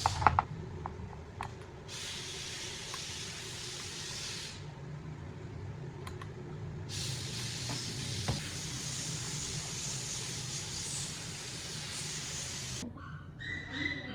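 A spray hissing in two long, steady bursts, the second about twice as long as the first, after a couple of sharp clicks at the start. A few light taps come near the end.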